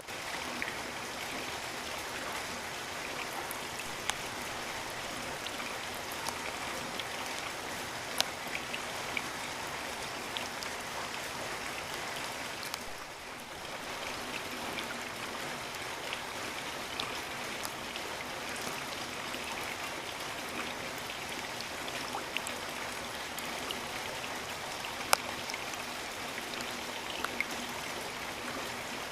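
Steady rainfall: an even hiss of rain with scattered louder drops and drips ticking through it, briefly easing about 13 seconds in.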